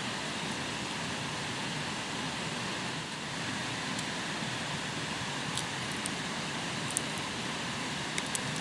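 Steady rushing outdoor noise, with a few faint sharp clicks scattered through the second half.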